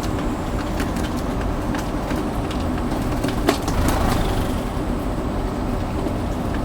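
Rain falling steadily: a constant hiss with individual drops tapping sharply on nearby surfaces.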